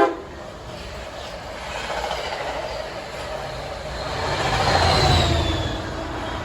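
Passenger train running by on the rails, just as its horn blast cuts off. The rumble of wheels on track swells to its loudest about five seconds in, with a brief high wheel squeal.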